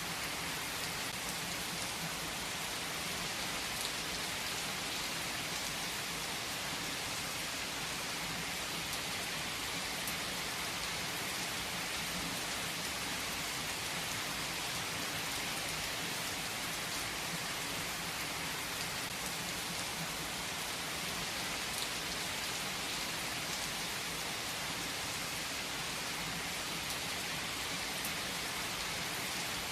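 Steady rain falling on a surface: an even hiss with a few louder drops now and then.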